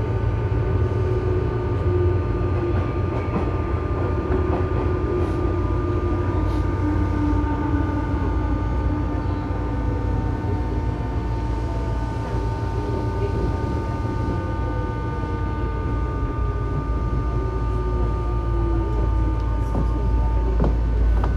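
Under-floor running sound of a Tobu 9000 series armature-chopper electric car, the uploader's 'abnormal chopper' car: steady high chopper tones over a rumble, with the motor whine falling in pitch as the train slows. The chopper tones cut off shortly before the end.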